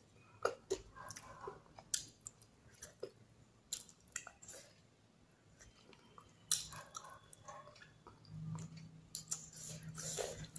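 Close-miked chewing and lip smacking of a person eating rice and curry by hand, with irregular wet clicks of the mouth.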